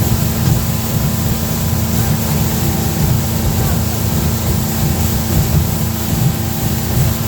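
Motorboat engine running steadily under way, a constant drone, with wind and water noise over it.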